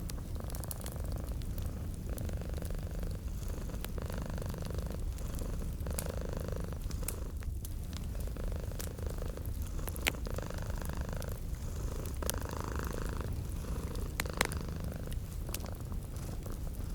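Domestic cat purring steadily in a low rumble that swells with each breath, about every second and a half, over a wood fire crackling with scattered pops, two of them sharper about ten and fourteen seconds in.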